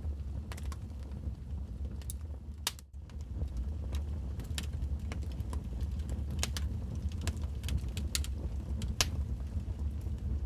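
Wood fire burning in a fireplace: irregular sharp crackles and pops over a steady low rumble of the flames. The sound briefly drops out for a moment about three seconds in.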